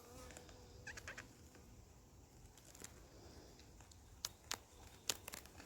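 Faint, scattered clicks and small knocks from handling the wooden hive boxes and frames, the sharpest a little after four and five seconds in.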